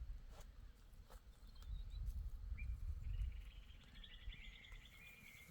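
A low rumble, with a single short chirp near the middle and a bird's fast chirping trill starting about four seconds in.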